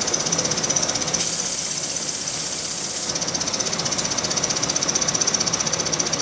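1921 Empire B30 toy live-steam engine running fast in a rapid, even beat. A loud hiss of escaping steam comes in about a second in and stops after about two seconds.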